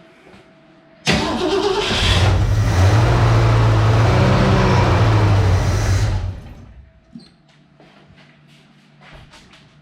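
1966 Ford Mustang engine catching about a second in on fuel poured down the carburetor and running steadily for about five seconds, then fading out as the prime is used up, since the fuel lines are not yet delivering fuel.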